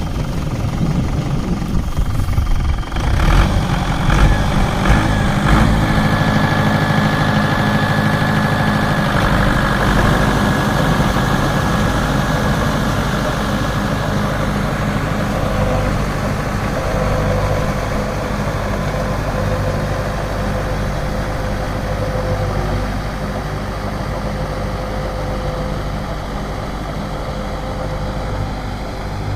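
Mahindra 595 Turbo tractor's diesel engine running steadily while driving a Shaktiman rotavator through a puddled field, with a few sharp knocks a few seconds in.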